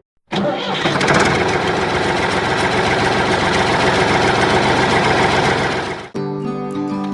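An engine or motor starts after a brief silence, runs steadily with a fast, even rhythm, then stops abruptly about six seconds in.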